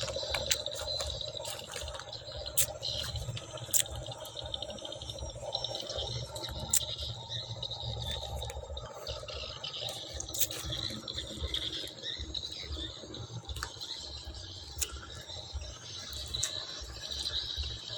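Rain falling steadily, with scattered sharp drops tapping.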